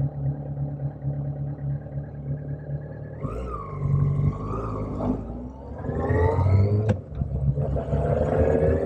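Motorcycle engine ticking over with an even pulsing beat, then revving and pulling away from about three seconds in, its pitch climbing in repeated rising sweeps, with one sharp click near the end.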